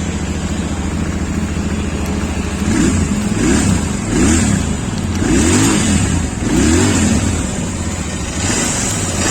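Royal Enfield Interceptor 650's 650cc parallel-twin engine idling, then blipped about five times from a little under three seconds in before it settles back to idle. It runs with little mechanical rattle.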